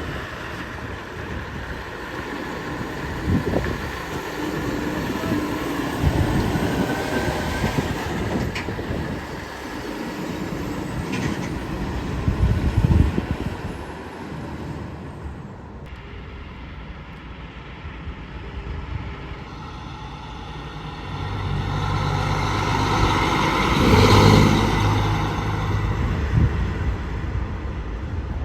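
Road traffic passing, then a truck's engine growing louder as it drives past, loudest about three-quarters of the way in, and fading.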